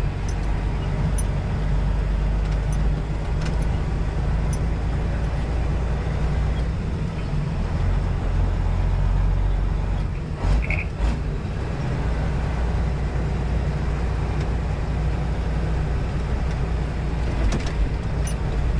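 Semi-truck diesel engine running steadily, a low drone heard from inside the cab, with a few knocks and rattles about ten seconds in.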